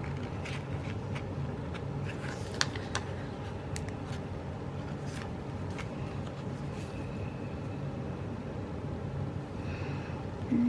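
Steady low background hum with scattered small clicks and paper rustles from stickers being peeled and pressed into a paper planner; the sharpest click comes about two and a half seconds in.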